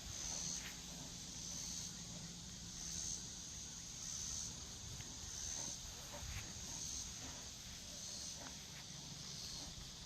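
Insects chirping outdoors, a high-pitched pulsing that swells about every second and a half, with a few faint clicks and rustles.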